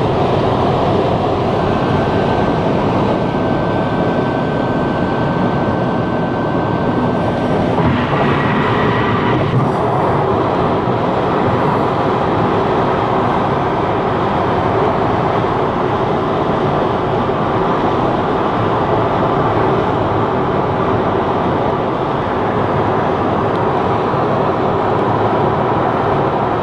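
Car driving on the road: steady road and wind noise, with a thin steady whistle for several seconds near the start.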